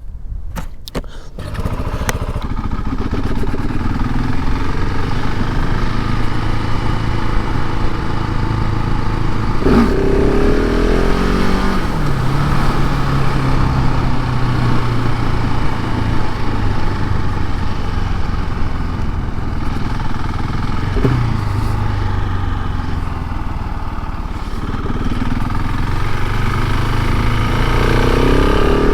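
KTM 690 SMC R's single-cylinder engine running through its stock exhaust. It comes up over the first couple of seconds and then runs at a fairly steady low pace. There is a short rev blip about ten seconds in and another around twenty-one seconds, and the revs rise again near the end.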